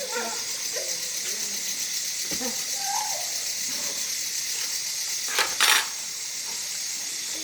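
Food frying in a pan with a steady sizzle, and two sharp metallic clinks about five and a half seconds in.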